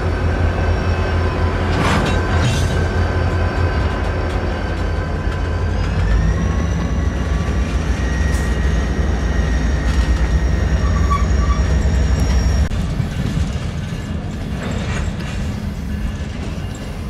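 CSX freight train passing: diesel locomotive engine hum over the rumble of steel wheels on rail, with a high thin whine that steps up in pitch about six seconds in. The low engine drone drops away about twelve and a half seconds in, leaving the rumble of the cars.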